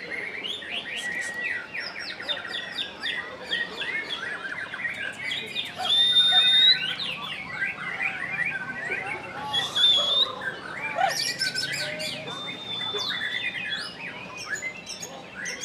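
White-rumped shama (murai batu) singing a fast, continuous, varied song of rapid chirps, sweeping notes and a few long, clear whistles.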